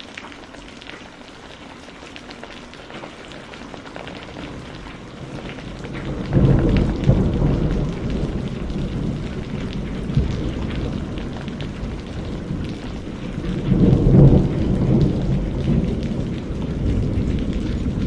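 Steady rain with thunder: a low rumble starts suddenly about six seconds in, rolls on, and swells again around fourteen seconds.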